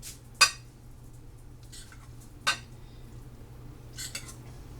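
Utensils clinking against a dish: three sharp clinks, the first the loudest, with quiet between them.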